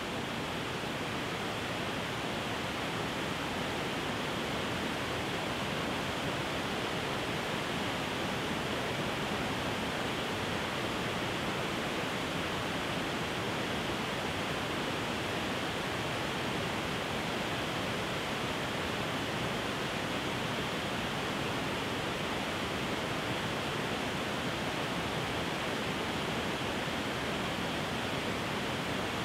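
Steady, even rushing noise that does not change and has no breaks.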